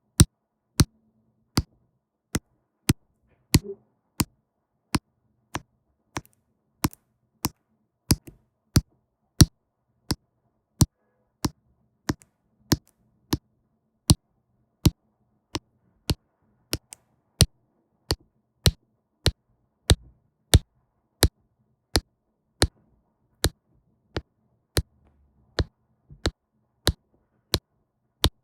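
Sharp ticks of diamond drills being tapped onto a diamond-painting canvas with the applicator pen, a steady rhythm of about two taps a second, some louder than others.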